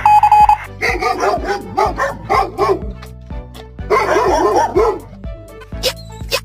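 A dog barking and yipping in two quick runs of short calls that rise and fall in pitch, over background music.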